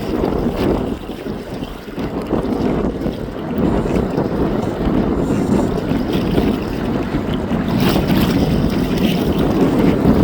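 Strong wind of about 25 knots buffeting the microphone: an uneven, gusting rumble that grows a little louder partway through.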